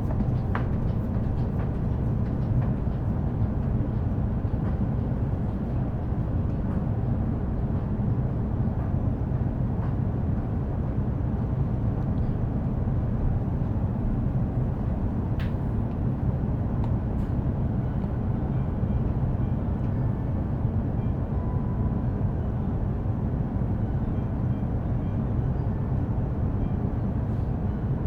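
E233 series electric commuter train heard from inside the passenger car: a steady low rumble of running noise with a few faint clicks.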